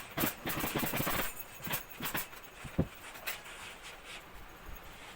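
Workshop handling noise: a quick run of clicks and scrapes lasting about a second, then a few separate knocks, the sharpest just under three seconds in.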